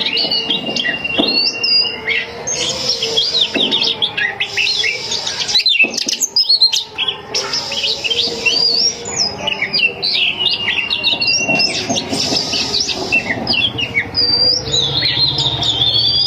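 Oriental magpie-robin (kacer) singing in full, a rapid, varied run of whistles, chirps and trills, with a long held whistle near the start and another about ten seconds in.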